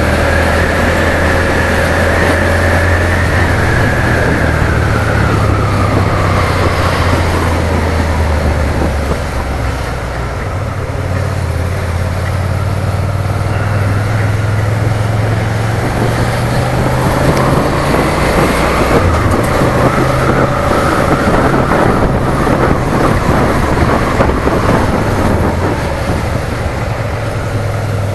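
Suzuki SFV650 motorcycle's V-twin engine running under way, its note rising and falling with the throttle, with a whine and rushing wind noise over it.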